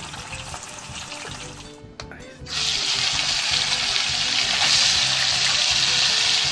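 Hot oil sizzling in a wok: a low, steady frying hiss from potato sticks, then about two and a half seconds in a sudden, much louder sizzle as strips of beef fry in the hot oil.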